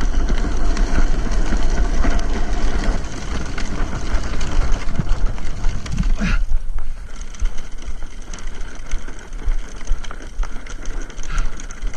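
Drift trike rolling along the road while pulled by a husky, its wheels and frame rattling, with wind rumbling on the microphone; it gets quieter about six seconds in.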